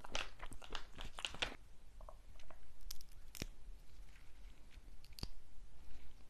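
Close-miked eating of a crunchy sweet snack. A quick run of crisp crunching about the first second and a half gives way to slower, softer chewing, broken by a few sharp clicks.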